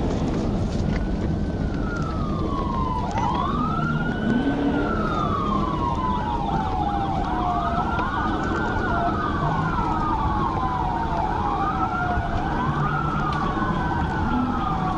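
Police car sirens wailing, two of them overlapping out of step, each sweeping up quickly and down slowly about every four seconds, over a steady road and engine rumble.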